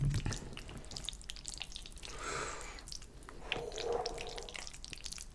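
Close-miked wet chewing of a mouthful of sauced pasta, full of small sticky mouth clicks and lip smacks, with two longer airy swishes around two and four seconds in. A dull knock comes at the very start.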